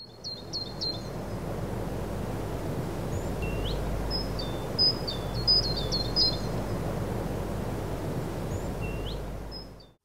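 Small birds chirping over a steady low rushing background noise. There are quick clusters of high chirps near the start and again about four to six seconds in, and two short rising whistles. The sound fades out at the end.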